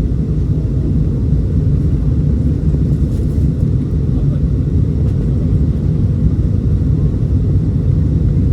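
Steady low rumble of an Airbus A321 in flight, heard from inside the passenger cabin: engine and airflow noise.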